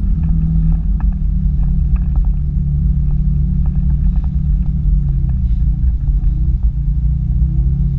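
Audi quattro's engine and exhaust running at fairly steady revs, the pitch sagging and rising a little in the second half, with scattered light clicks over it.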